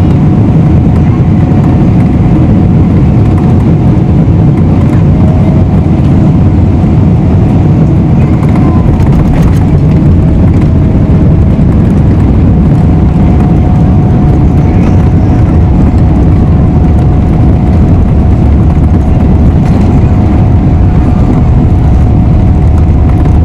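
Cabin noise inside a Boeing 777-300ER: a steady, loud rumble of engines and airflow with a faint steady whine over it.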